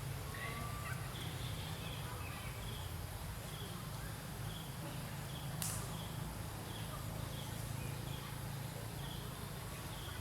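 Outdoor ambience: a steady low rumble with a short high chirp repeating about twice a second, and one sharp click about halfway through.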